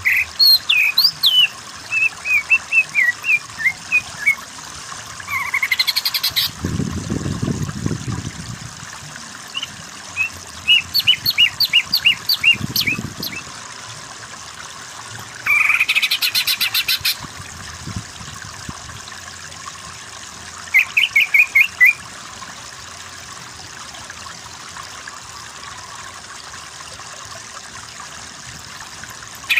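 Cucak ijo (green leafbird) singing in separate bursts of loud whistled notes, fast runs of repeated notes and rasping rattles, with pauses between phrases, over a steady trickle of water.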